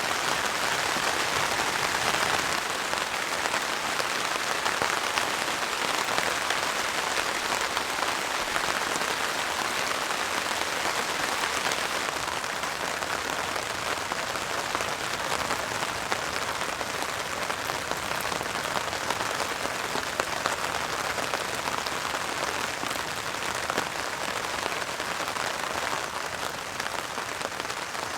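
Heavy rain falling steadily on a heavy-duty tarp overhead, a dense hiss of countless drops that eases slightly near the end.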